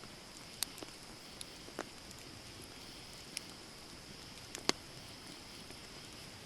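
Wood campfire crackling: scattered sharp pops and snaps over a steady soft hiss, with the loudest pop a little under five seconds in.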